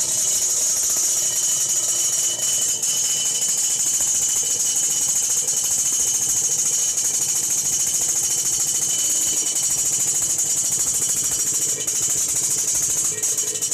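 Kawasaki Ninja 150 RR two-stroke engine running steadily through its exhaust, a loud, dense, fast rattling note with a crisp, raspy ('garing') edge.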